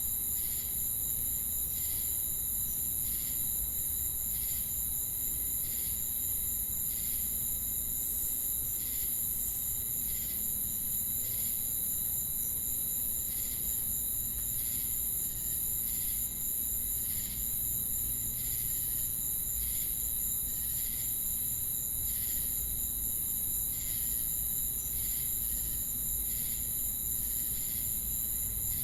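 Crickets and cicadas calling together: a steady high-pitched drone with a regular chirp pulsing about one and a half times a second.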